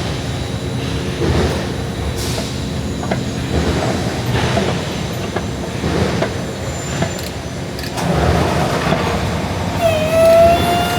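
Loud, steady rumble of heavy machinery, with a high squeal that rises in pitch about ten seconds in, like steel wheels grinding on a rail.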